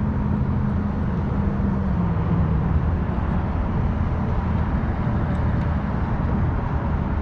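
Motorboat engine running steadily nearby, its pitch dropping slightly about two seconds in as it passes.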